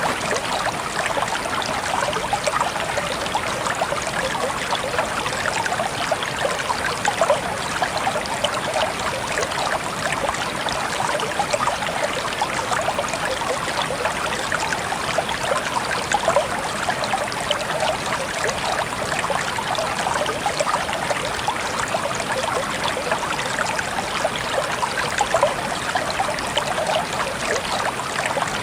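Steady trickling water, a dense patter of small drops and splashes that does not let up.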